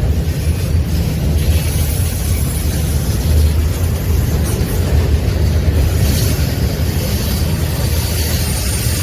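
A train rolling past with a steady, loud, low rumble.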